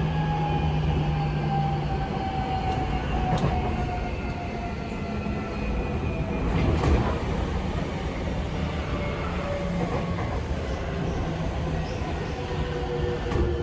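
Running sound of a Seibu 6000 series train heard inside the car: the Mitsubishi SiC-VVVF inverter and traction motor whine falls slowly in pitch over a steady rumble of wheels on rail, with a few sharp clicks from rail joints. The falling whine marks the train slowing down.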